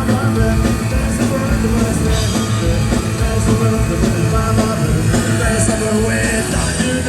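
A live punk rock band playing loud, with driving drums, electric guitars and bass, and a voice singing over them.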